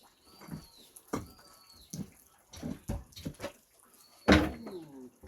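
A few sharp knocks and thuds of building materials being handled, the loudest about four seconds in. Between them a bird gives a short, high, arching whistle several times.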